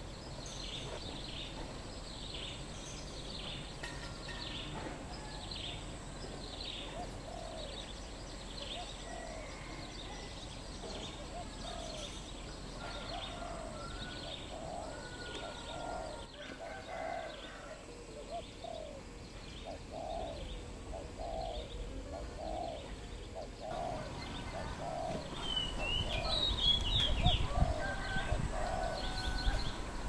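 Wild birds calling: a long, even series of low notes, about one and a half a second, with a repeated higher call in the first half and a few sharp chirps near the end. A low rumble grows louder over the last few seconds.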